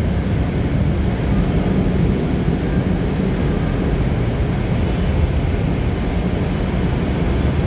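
Automatic car wash machinery running with a loud, steady rushing rumble.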